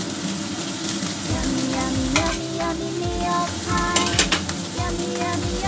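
Oil sizzling in a hot wok and frying pan as green vegetables are tipped into the wok, with a few sharp clicks about two and four seconds in.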